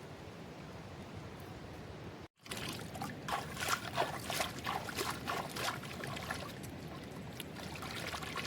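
A steady hiss, cut off abruptly about two seconds in, then water splashing and trickling in uneven spurts.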